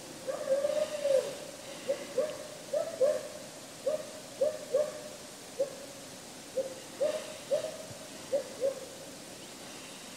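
A night bird hooting: a run of short hoots, many in quick pairs, about one or two a second, which stops shortly before the end.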